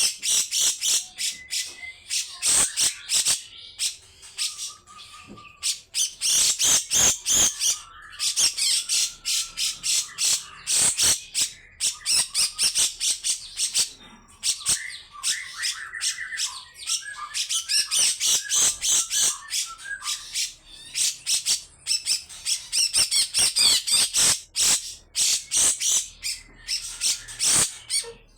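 Cucak jenggot (grey-cheeked bulbul) giving long runs of harsh, rasping scolding calls: rapid strings of grating notes in bursts of several seconds with short pauses between.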